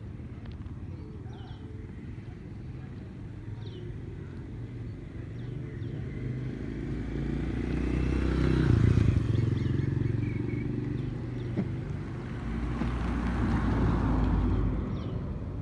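Motor vehicles passing twice, each a low engine rumble that swells and fades, the first loudest about nine seconds in, the second around thirteen to fourteen seconds. Faint short chirps sound now and then over a steady background rumble.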